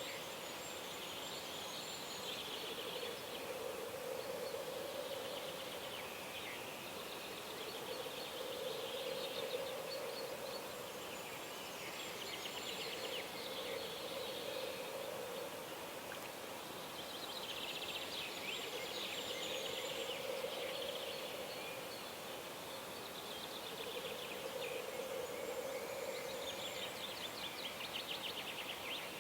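Several birds singing at a calm pond: a low call repeats every few seconds, each lasting a second or two, while higher trilled songs come and go over a faint steady hiss.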